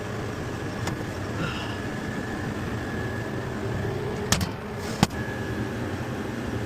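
Steady hum of running HVAC equipment with a faint steady whine, broken by a few sharp clicks: one about a second in, a close pair a little after four seconds and one more at five seconds.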